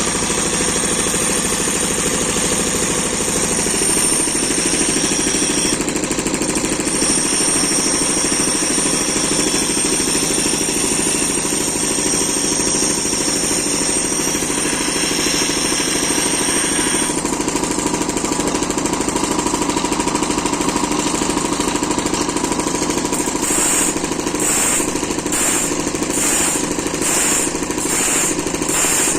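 Electric grinder running against a circular saw blade, sharpening it: a steady machine noise with a constant high whine. Near the end the grinding sound rises and falls in a regular pulse, about one and a half times a second.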